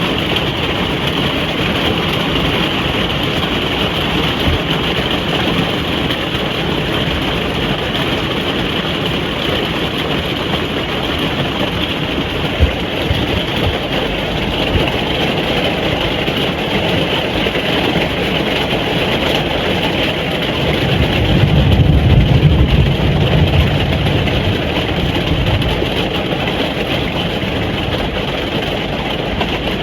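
Steady rain drumming on a caravan roof, heard from inside. About twenty seconds in, a low rumble of distant thunder swells for a few seconds and fades.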